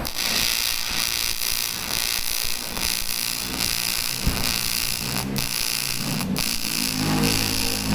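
AC TIG welding arc on aluminium: a steady, hissing buzz that starts abruptly and breaks off briefly twice. A lower droning hum joins near the end.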